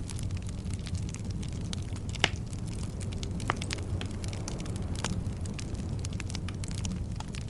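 Fireplace fire crackling over a low, steady rumble of flames, with a few sharper pops, the loudest a little over two seconds in.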